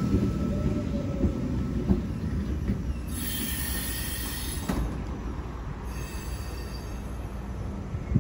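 NSW TrainLink V-set double-deck electric intercity train rumbling along the platform and slowing, the sound gradually fading. A high brake and wheel squeal sets in about three seconds in and lasts about a second and a half, with a fainter squeal a little later.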